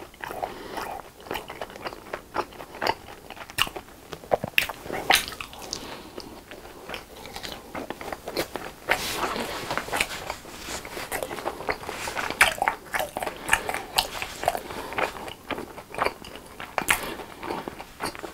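Chewing a crispy fried cheese stick, with an irregular run of sharp crunches throughout.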